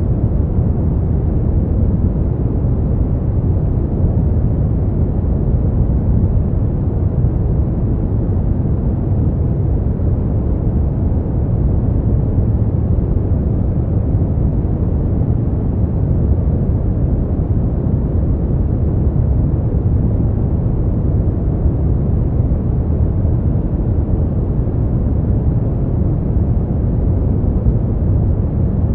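Steady, unbroken noise for sleep and relaxation. It is deep and rumbling, with most of its weight in the bass and almost no hiss, closer to brown noise than to bright white noise.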